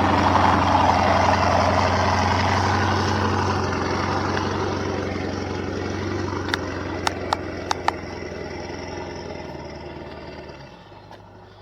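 Pickup truck engine running steadily under load, growing gradually fainter, with four sharp clicks or knocks about two-thirds of the way through.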